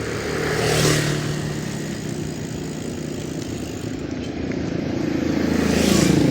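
Motorcycle engine running at a steady pitch, with a rush of noise about a second in and again near the end, where the engine note starts to climb and grow louder.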